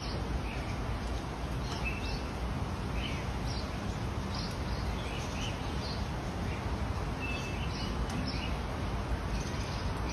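Small birds chirping now and then over a steady background hiss.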